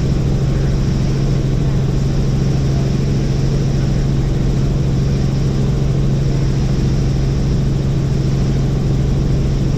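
Helicopter in flight: a loud, steady drone of rotors and engine with a constant low hum.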